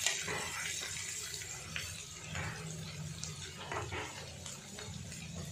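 Garlic and ginger sizzling in hot oil in a metal kadhai, steady, with a metal ladle scraping and clinking against the pan now and then as it stirs.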